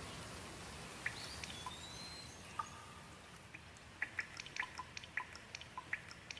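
Water drops falling in sharp, clear plinks. They are sparse at first and come thick and fast from about four seconds in, over a soft hiss that slowly fades. A single short whistle rising in pitch, from a bird, comes around a second and a half in.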